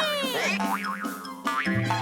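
Cartoon spring 'boing' sound effects for bouncing jump boots: a falling pitch sweep, then several quick wobbling up-and-down pitch bends, over playful background music.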